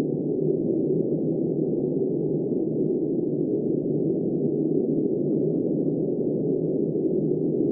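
Blizzard wind blowing steadily, a dull, muffled rush with no gusts or breaks.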